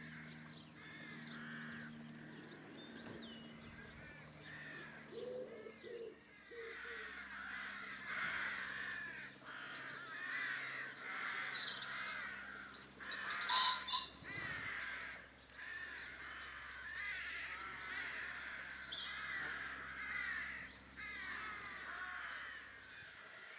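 Many crows cawing together, call after call overlapping, faint and rising and falling in strength.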